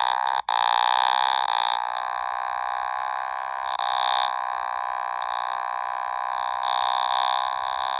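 Otamatone holding one long buzzy, nasal tone in imitation of a car engine. The tone cuts out for an instant about half a second in, then carries on with slight dips and wobbles in pitch.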